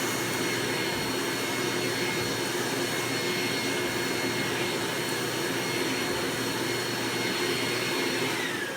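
Eureka "The Boss" Mighty Mite II 7-amp canister vacuum running steadily, a high motor whine over the rush of air. Near the end the whine starts to fall as the motor winds down.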